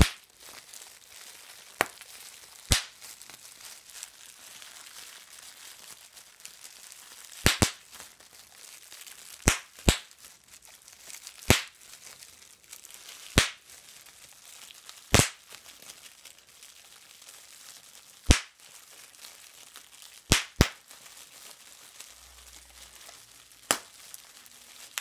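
Sharp pops, about fourteen at irregular intervals a second or more apart, some in quick pairs, with faint crinkling between them.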